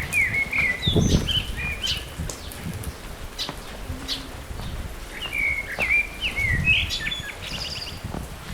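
A songbird singing two short phrases of quick, varied chirping notes, one at the start and one about five seconds in, over low thuds and a steady outdoor hiss.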